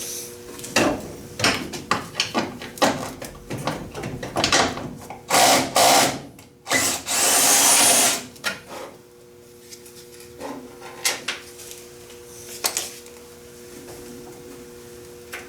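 A 10mm socket on a long extension working a trim-mounting bolt: a run of quick clicks and clanks, then a power driver spinning for about a second and a half, about seven seconds in, with a high whine, followed by a few scattered knocks.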